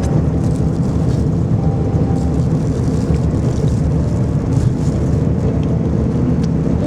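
Steady low rumble of a moving vehicle running without a break.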